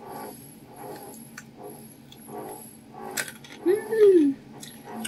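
Close-miked chewing of fried chicken and rice: soft, wet mouth sounds in a steady rhythm. About four seconds in comes a short closed-mouth hum of enjoyment that rises and then falls in pitch.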